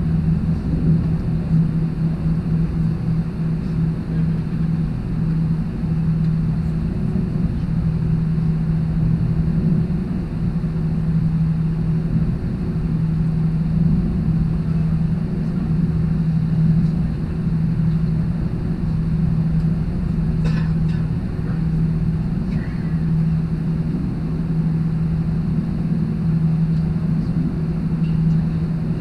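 Airbus A321-200 jet engines running, heard inside the passenger cabin: a steady rumble with a constant low hum.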